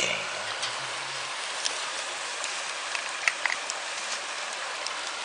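Wood campfire crackling: a steady hiss with scattered sharp pops and snaps.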